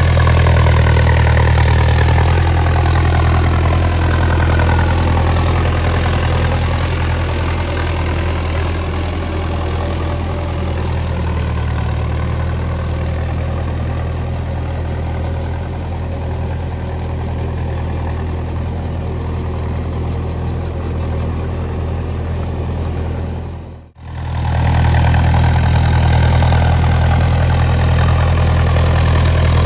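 Mahindra Arjun Novo 605 DI tractor's diesel engine running steadily under load, driving a rotavator through deep mud. Its pitch eases down slowly over the first several seconds. The sound drops out for a split second about four-fifths of the way through, then resumes.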